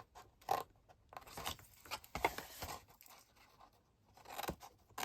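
Scissors cutting cardstock with handling of the card: a scatter of short, irregular snips and rustles.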